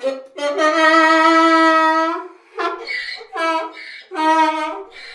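An animal calling repeatedly: one long, even call, then a run of shorter calls with breathy puffs between them.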